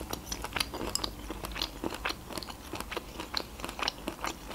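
Close-miked chewing of a mouthful of ripe avocado: irregular short mouth clicks and smacks, several a second.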